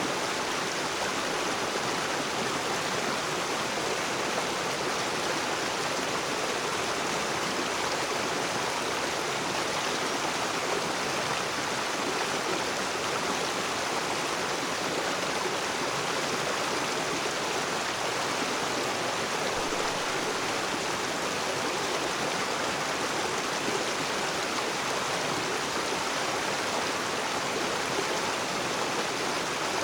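Water of a rocky river rushing and splashing over stones, a steady, even sound with no change.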